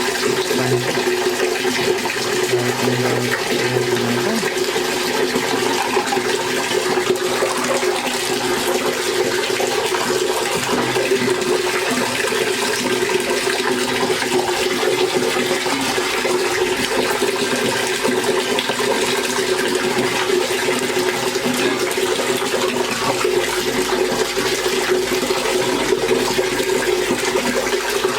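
Tap water running in a steady, continuous stream while fish is washed under it.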